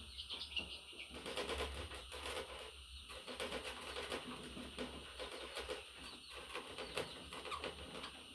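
Pet budgerigar chattering and warbling, a steady stream of short chirps and clicks with a few brief pauses.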